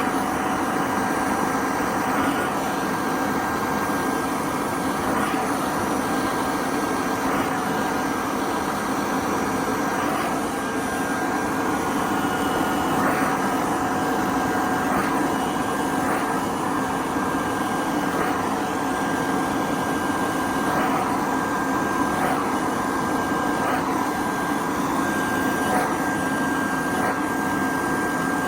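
A motor running with a steady drone that holds several steady tones, with faint scraping strokes of sandpaper on wood every couple of seconds.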